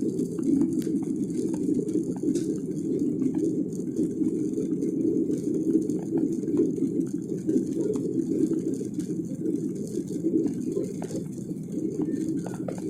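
Steady cabin roar of a Boeing 737-800 airliner's CFM56 jet engines and airflow during takeoff, heard from inside the cabin: a dense low rumble with a thin high hiss and light scattered rattles.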